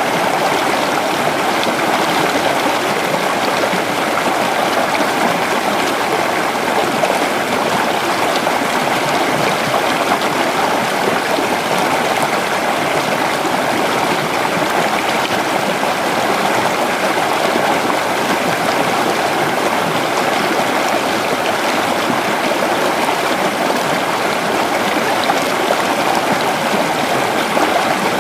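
Creek water flowing and babbling over rocks, a steady, even rush of running water with no breaks.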